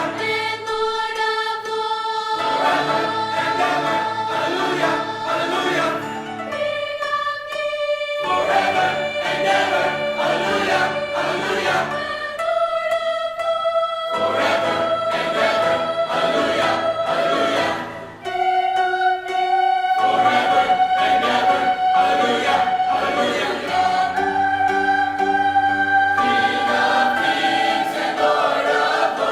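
High school choir singing with accompaniment, holding long sustained notes that change pitch every few seconds.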